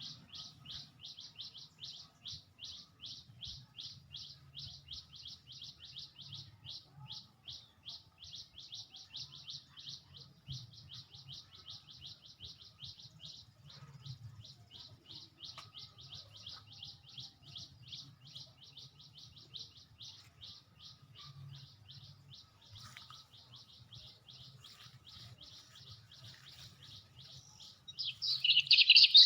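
A small songbird chirping over and over, about four short, high chirps a second at an even pace; near the end, louder and busier chirping breaks in.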